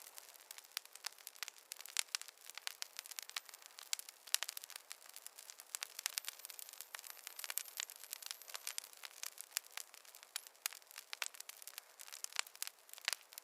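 Wood campfire crackling: a dense, irregular run of sharp pops and snaps.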